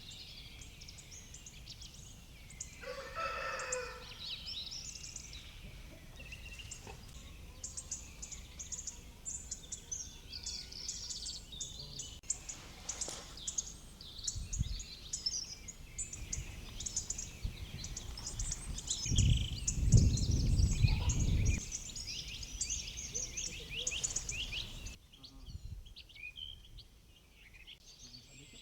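Songbirds singing densely in a morning chorus, with a rooster crowing once about three seconds in. A low rumble, the loudest sound, swells for about two seconds past the middle.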